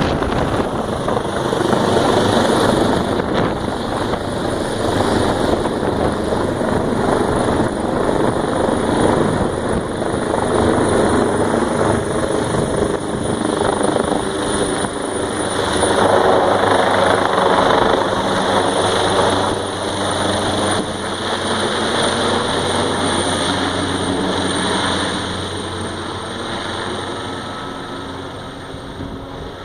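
Emergency medical helicopter running, its rotor beat and turbine whine loud and steady, growing fainter over the last several seconds.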